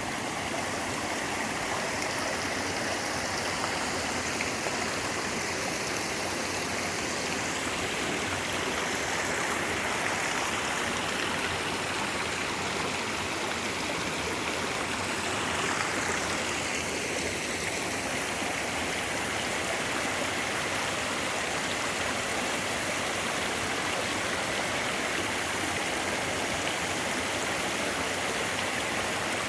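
Clear mountain stream flowing, a steady rush of running water.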